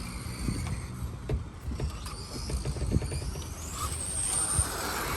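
Electric 1/10 RC touring car's motor whining, rising in pitch as the car speeds up and holding high about four seconds in, over a low rumble and scattered clicks.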